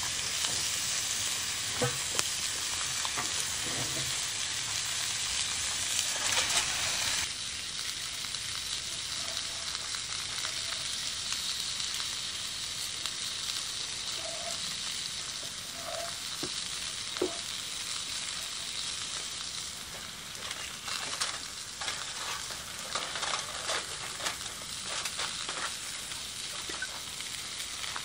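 Food sizzling in cast-iron pans over a wood fire: steaks searing and pierogies with mushrooms frying, a steady frying hiss that drops a little about seven seconds in. Later a metal utensil scrapes and clinks against the pan as the food is stirred.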